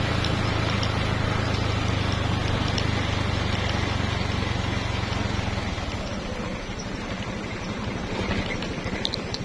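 Engine running steadily, then settling into a quieter, rapidly pulsing throb a little past halfway.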